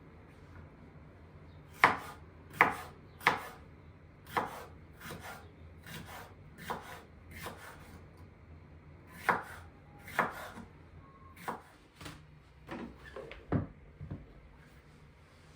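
Knife chopping on a cutting board in slow, irregular strokes, the first three the loudest, with a short pause midway.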